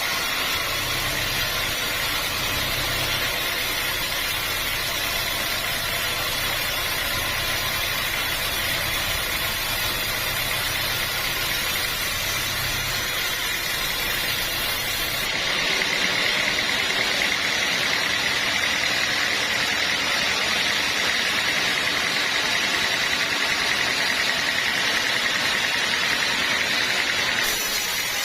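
Sawmill running steadily with its engine drone, the sound of a log of hard acacia wood being sawn. About halfway through the sound turns louder and higher-pitched, and stays so until just before the end.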